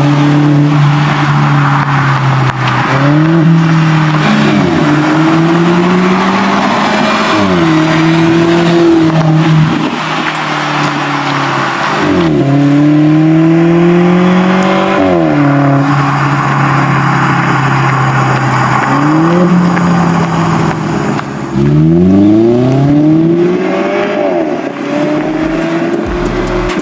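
Mercedes-Benz C200's M264 turbocharged four-cylinder engine through a RES cat-back valved exhaust, accelerating repeatedly. The engine note climbs steadily in pitch and then drops suddenly at each gear change, several times over, with a few quick revs rising near the end.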